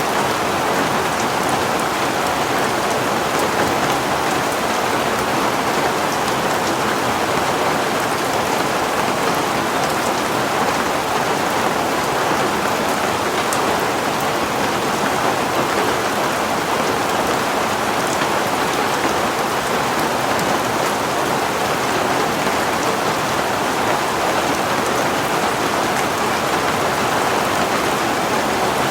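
Heavy rain falling steadily, an even wash of noise with scattered drops ticking on a surface.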